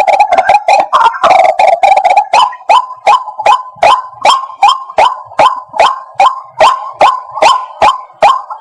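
White-breasted waterhen calling: a dense run of harsh, overlapping croaking notes for the first couple of seconds, then a steady series of sharp 'kwak' notes, about two and a half a second.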